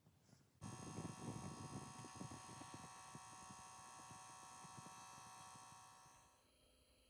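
Small battery-powered blower fan of a Sierra wood-burning stove whirring with a steady whine, switching on suddenly about half a second in and winding down near the end.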